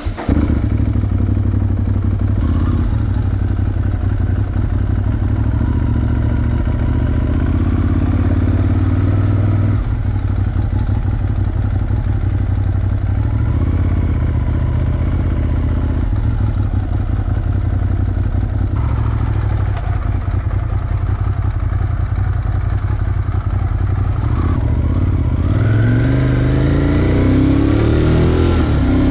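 Ducati Monster 821's 821 cc L-twin engine through an Akrapovic exhaust, running at low revs as the motorcycle moves off slowly, then rising in pitch as it accelerates near the end.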